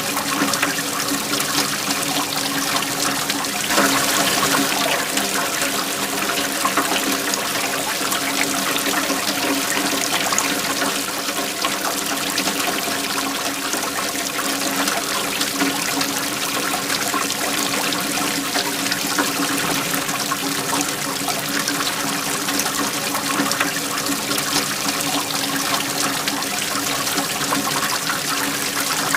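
Waterfall water falling and splashing steadily, with a slight swell about four seconds in.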